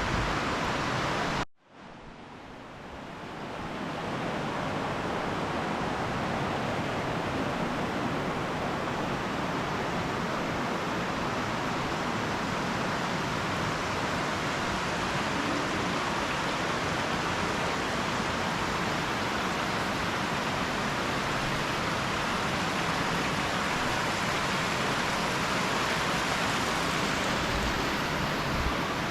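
Steady rushing noise with no distinct events. It cuts out abruptly about a second and a half in, then fades back up over the next two seconds.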